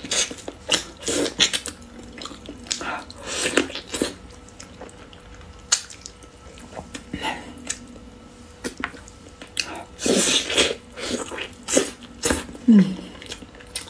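Close-miked eating sounds of braised duck leg: irregular wet chewing, lip smacks and clicks as the meat is bitten and chewed, with a few louder noisy bursts, the biggest about ten seconds in.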